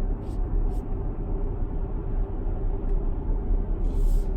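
Steady low road and tyre rumble heard inside the cabin of an electric Tesla Model X, with a brief hiss near the end.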